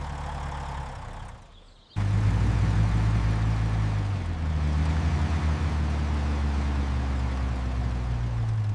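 Low, steady engine rumble of an animated truck sound effect. It fades out about a second and a half in, then cuts back in suddenly, louder, half a second later and runs on.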